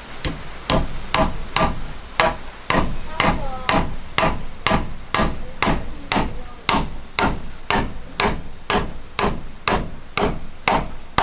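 Hammer blows in a steady rhythm, about two a second, each strike with a short metallic ring, as in hammering on the wooden railing.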